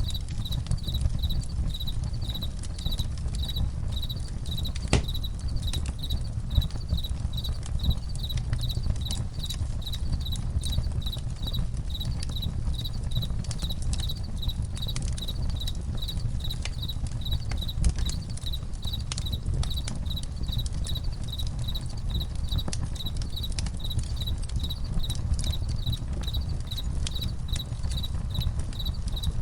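Crickets chirping in a steady, even rhythm over a crackling campfire, with scattered sharp pops and a low rumble beneath.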